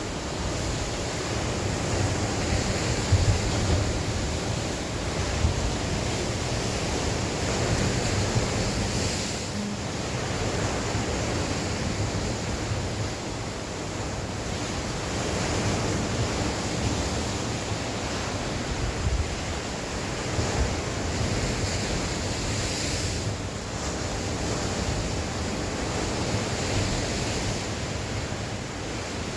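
Sea waves breaking and washing on the shore in a continuous, gently swelling wash, with wind gusting over the microphone.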